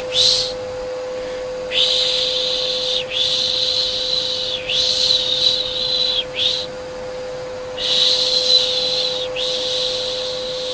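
Rhythmic 'shh' shushing to soothe a baby: a long hiss repeated about every second and a half, with one longer pause past the middle, over the steady hum of a vacuum cleaner.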